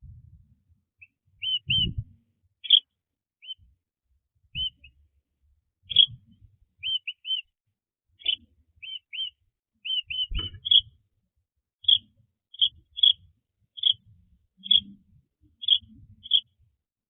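A small bird chirping: a steady run of short, high chirps, one or two a second, some of them quick rising-and-falling hooks. Soft low thumps come now and then, the strongest about two seconds and ten seconds in.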